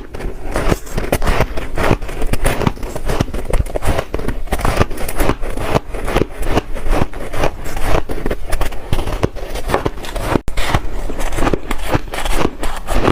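Ice being bitten and chewed close to the microphone: a dense, continuous run of sharp crunches, several a second, with one brief pause near the end.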